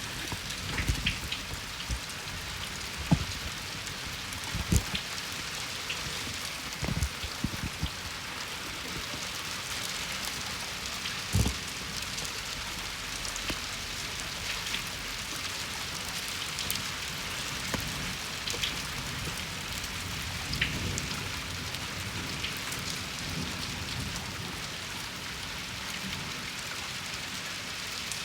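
Heavy rain falling steadily, a constant hiss of drops on surfaces, with a handful of louder, sharp close drips in the first half.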